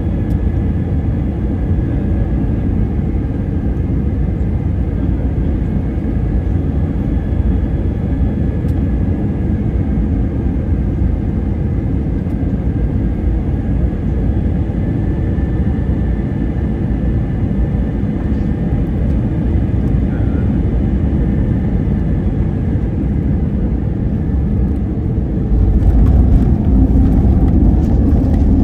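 Airliner noise during the landing approach: a steady low rumble with a faint high engine whine, growing louder and rougher near the end.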